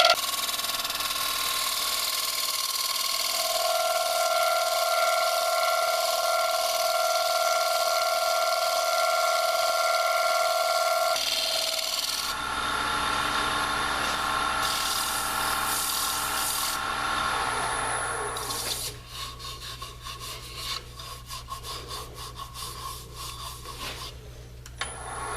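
Scraper cutting a dry hard maple bowl spinning on a mini wood lathe: a steady scraping rasp with a whistling tone through it for about eleven seconds, then the sound changes, and in the last several seconds the tool only touches the wood in short, quieter scrapes over the steady hum of the lathe.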